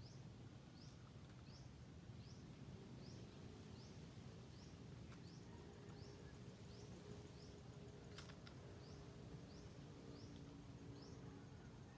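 Faint outdoor ambience with a steady low rumble and a short, high, rising chirp repeating about every two-thirds of a second. A sharp click comes about eight seconds in.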